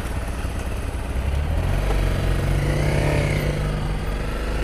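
Honda CRF250 dirt bike's single-cylinder four-stroke engine running as the bike rides off. The revs rise about a second and a half in, peak, then ease back.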